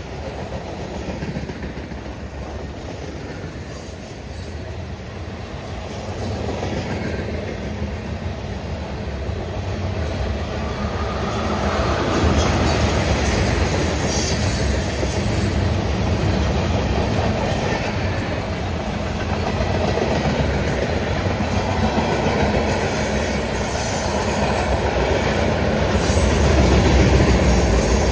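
Freight train passing close by on the rails: wheels clattering and rumbling, with some wheel squeal. It grows louder at about six seconds and again at about twelve seconds, then stays loud.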